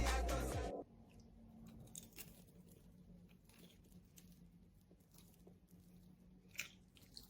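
Background music cuts off about a second in, then faint, scattered crackles and small pops, with one sharper crack near the end: popping candy crackling on the dessert.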